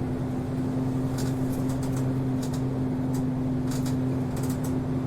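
City route bus's diesel engine running at a steady pitch, heard inside the bus, with scattered light ticks and rattles.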